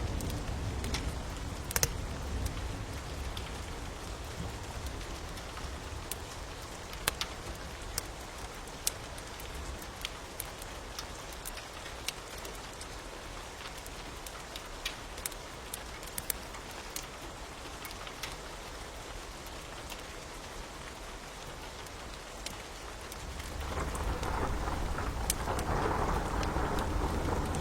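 Steady rain hissing, with a wood fire crackling and popping in sharp single snaps throughout. A low rumble swells near the end, and the rain grows louder with it.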